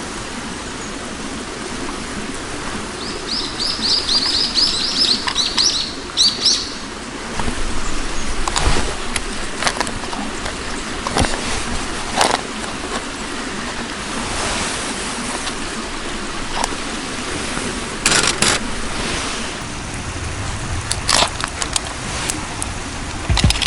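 A small bird calls a rapid run of high chirping notes, about ten a second, starting about three seconds in and lasting some three seconds. It sounds over a steady rushing background, with scattered sharp clicks and knocks in the second half.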